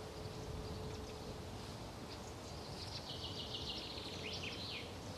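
Faint bird chirps, a quick run of short high tweets and pitch glides about halfway through, over a low steady background hum.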